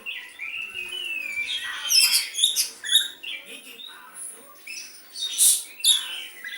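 Oriental magpie-robin singing a varied song of sliding whistles broken by several short, harsh, scratchy bursts, with phrases mimicking the sooty-headed bulbul.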